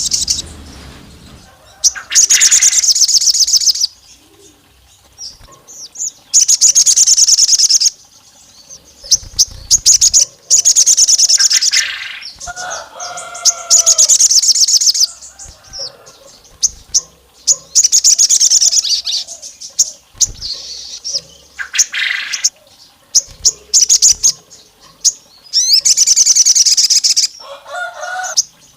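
Sogon bird singing in full song: loud bursts of very rapid, high-pitched trills about a second and a half long, repeated every few seconds, with shorter chirps and lower warbled notes in between.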